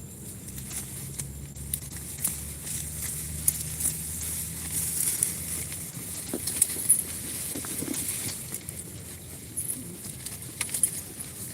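Goats grazing and moving about in dry vegetation: scattered crackles, clicks and rustles. A low drone fades out about six seconds in.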